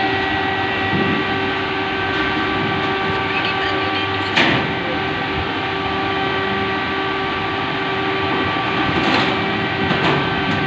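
A steady machine hum, one unchanging pitch with its overtones over a noisy rush, with a sharp knock about four seconds in and another about nine seconds in.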